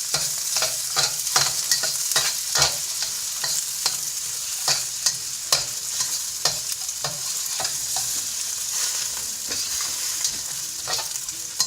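Stir-frying in a wok: eggs and vegetables sizzling in hot oil while a spatula and spoon toss them, knocking and scraping against the wok about twice a second at an uneven pace.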